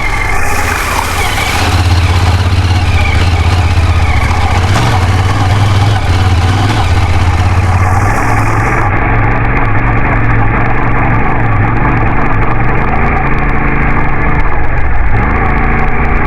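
Off-road motorcycle engine running steadily under load, with a hissing rush over it for about the first half that stops abruptly partway through.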